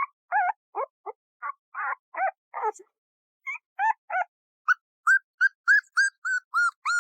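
Puppy whimpering and whining: a string of short, high-pitched calls, about three a second, turning into rising whistle-like whines about halfway through.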